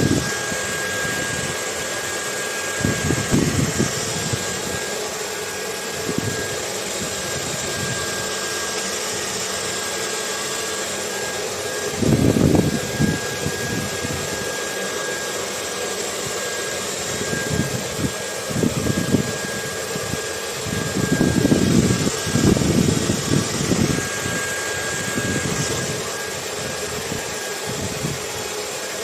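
Hair dryer running steadily: a constant airy hiss with a thin, steady whine. Low gusts of wind swell and fade beneath it several times.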